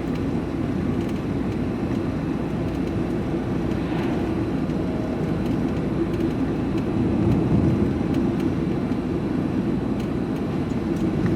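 Steady engine drone and road rumble of a diesel vehicle, heard from inside the cab while driving along at a constant pace.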